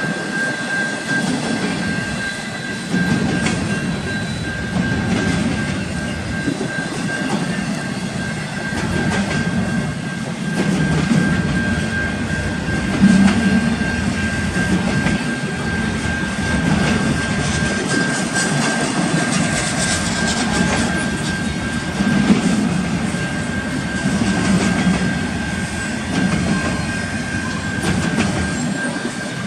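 Freight cars of an intermodal train rolling past, wheels clicking and rumbling on the rails in an uneven rhythm, with a thin steady high whine throughout.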